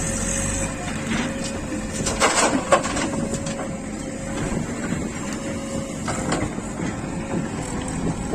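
JCB 3DX backhoe loader's diesel engine running steadily with a constant whine, and a short cluster of knocks and rattles about two to three seconds in.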